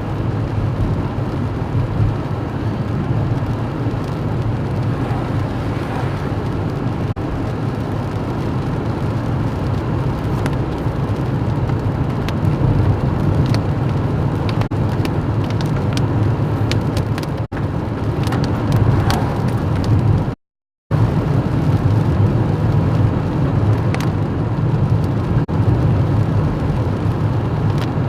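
Car engine and road noise heard from inside the cabin while driving, a steady low rumble with faint scattered clicks. The sound cuts out completely for a moment about two-thirds of the way through.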